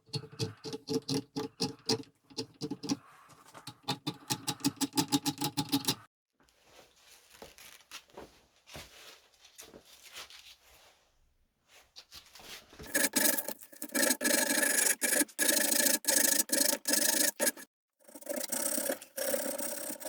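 Rapid back-and-forth rubbing strokes on wood, worked by hand, quick and even at first, then fainter, then two longer, louder stretches of scratchy rubbing.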